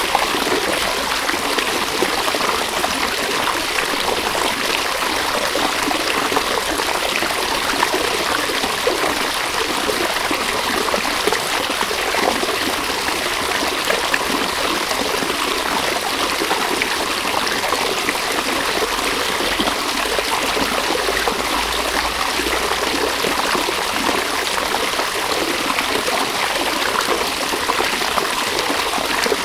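River water running steadily over stones, a constant rushing and babbling.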